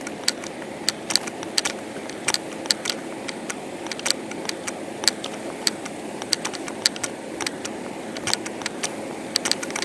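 Steady vehicle engine hum, with irregular light clicks and rattles scattered through it.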